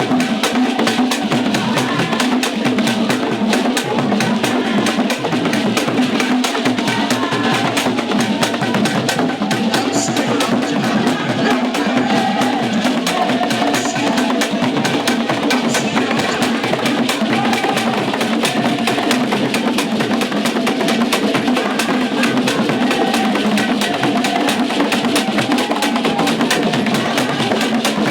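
Percussion music played loud and steady: several drums and a wood-block-like instrument beating a fast, dense rhythm.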